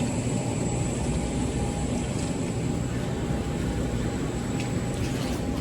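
Boeing 737-800 airliner noise: a steady low rumble with a thin, high, continuous whine above it.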